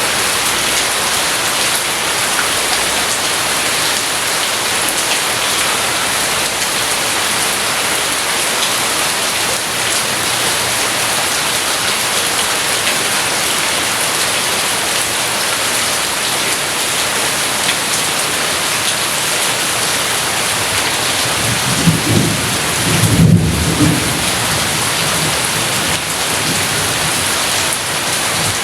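Steady heavy rainfall, with a low rumble of thunder lasting about two seconds, a little over two-thirds of the way through.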